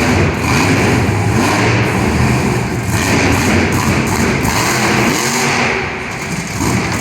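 Monster truck engine revving hard during a freestyle run, its pitch repeatedly climbing and dropping, with a brief dip in loudness about six seconds in.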